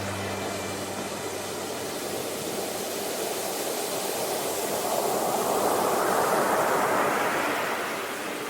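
Ocean surf: a steady wash of breaking waves that swells to a peak about five to seven seconds in, then eases off.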